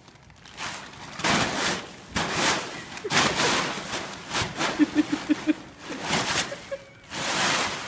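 Plastic tarp crinkling and rustling in repeated loud swishes as a horse shakes and drags it about.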